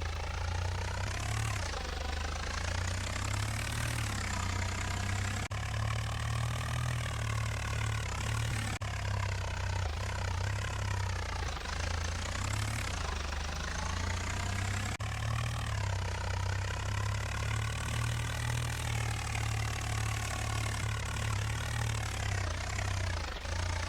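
Swaraj 855 tractor's diesel engine running steadily with a deep low rumble, its pitch swelling and easing every few seconds as the revs rise and fall.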